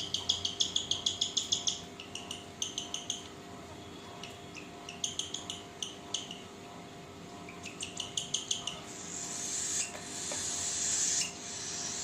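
Lutino cockatiel chick's begging calls as it is hand-fed: several runs of rapid, high, raspy chirps, about eight a second, the call of a chick still hungry for food. Near the end a longer hissing sound swells for about two seconds and cuts off suddenly.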